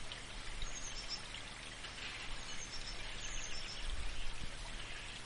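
Outdoor ambience: a steady hiss of background noise with small birds chirping high and brief, in a few short phrases.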